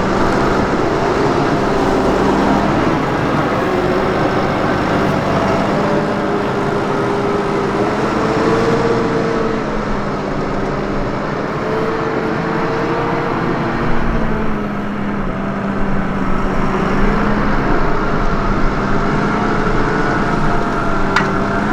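New Holland T7.245's six-cylinder NEF diesel engine running steadily under load, pulling a five-furrow plough through the soil. Its pitch wavers a little up and down as the load changes.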